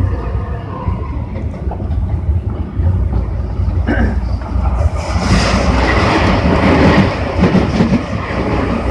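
Tobu 60000 series electric train running on the rails, a steady low rumble with a faint motor whine fading away early. From about five seconds in, a louder hissing rattle of wheels on track joins it.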